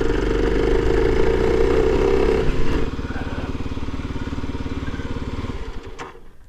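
Kawasaki KLX 300's single-cylinder engine running as the bike rolls to a stop, dropping to an even idle about three seconds in, then cut off shortly before the end.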